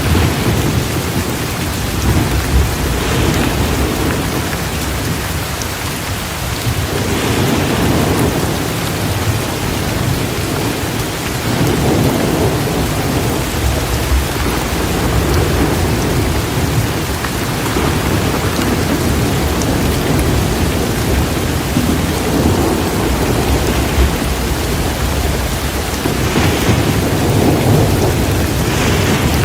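Thunderstorm with heavy, steady rain and repeated rolls of thunder swelling and fading every few seconds.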